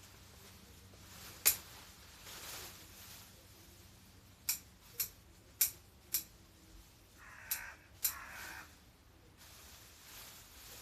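Garden pruning shears snipping: sharp metallic clicks, one early and then a run of four at about two a second. Two short harsh calls come near the end.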